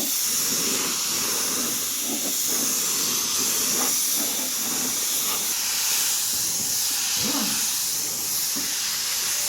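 Steady hiss of compressed air, the kind a paint spray gun or air blower makes in a body shop.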